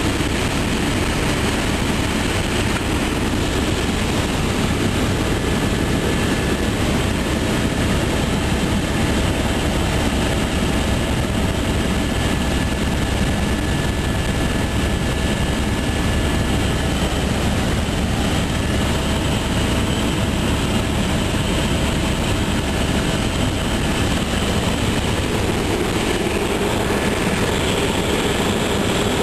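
Helicopter in flight, heard from inside the cabin: a steady, loud rotor and engine drone with a fast low flutter and a few steady tones above it, unchanging throughout.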